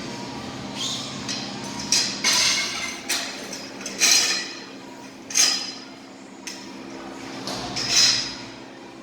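Repair-shop work noise: about half a dozen irregular sharp metallic clanks and short bright bursts, over a steady low hum.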